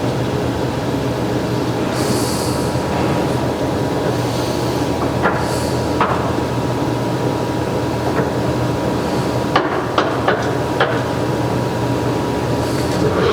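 Turnmaster 15 x 50 gap bed engine lathe running under power, its headstock and gearing giving a steady hum with a thin whining tone. Several sharp clicks and knocks come in the second half.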